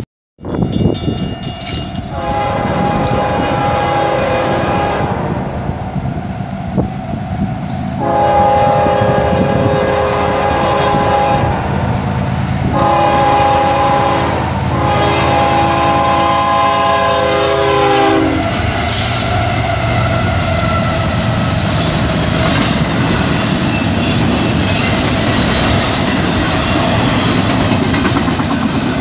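CSX diesel freight locomotive sounding its multi-note air horn for a grade crossing in the standard long, long, short, long pattern. It is followed by the rumble and wheel clatter of a double-stack container train passing close by.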